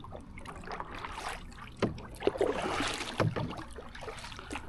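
Canoe paddle strokes swishing through the water, with a couple of sharp knocks as the paddle strikes the canoe's gunwales.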